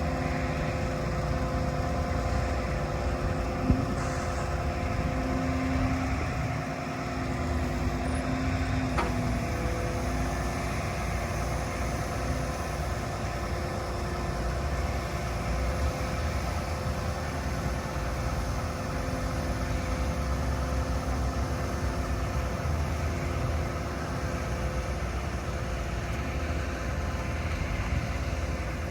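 Diesel engine of an International HV 507 utility truck running steadily with a constant low hum, a sharp click about four seconds in, and a shift in the hum's tone about nine seconds in.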